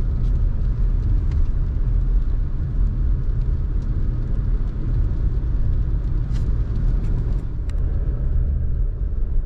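Car driving on a road: steady low rumble of engine and tyres, with a few faint ticks.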